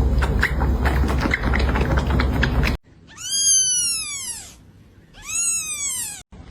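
Two high-pitched kitten meows, each falling in pitch, a little over a second apart. Before them comes a few seconds of rustling noise with small clicks and a low rumble, which stops abruptly.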